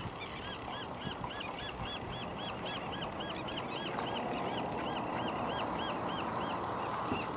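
Gull calling a rapid, even series of short arched notes, about three or four a second, that stops shortly before the end, over a steady rushing background.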